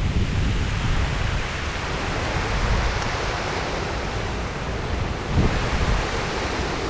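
Strong wind rushing through forest trees, swelling in a gust around the middle, with low buffeting of wind on the microphone.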